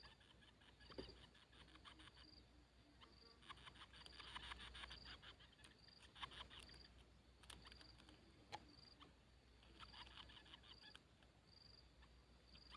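Faint insect chirping: a short high chirp repeating about once a second, with a burst of rapid clicking every few seconds.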